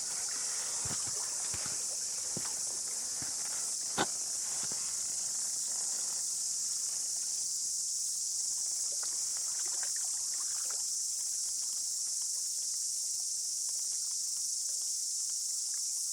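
Insects calling in a steady, high-pitched chorus, with a few scattered footsteps or small clicks over the first few seconds and one sharp click about four seconds in.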